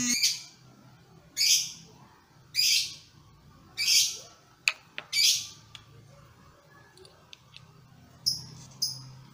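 A bird giving four harsh, scratchy calls about a second apart, then a few shorter, higher chirps near the end. Two sharp clicks fall between the calls.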